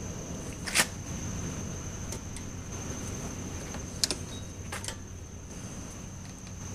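Three sharp clicks or knocks, about a second in and then around four and five seconds in, over a faint steady high whine and low hum; no engine is running yet.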